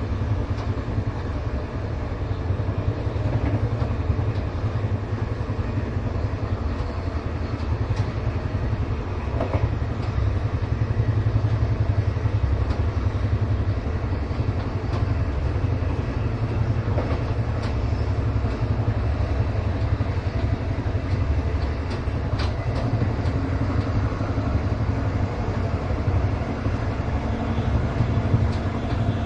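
Interior ambience of a moving passenger train: a steady low rumble of the carriage running on the rails, with a few sharp clicks and knocks scattered through it.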